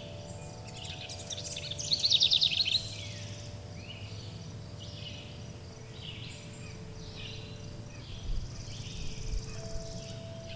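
Forest birds chirping in a repeated series of short calls, with a loud rapid trill about two seconds in. Underneath are steady sustained chime tones and a low steady hum.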